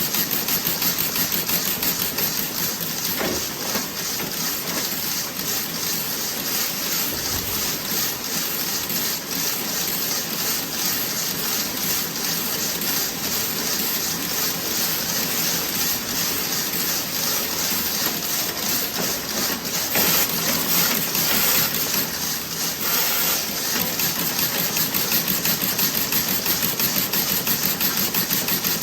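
Automatic toe-sock knitting machine running: a dense, fast mechanical clatter with a rapid, even beat that is clearest near the start and end.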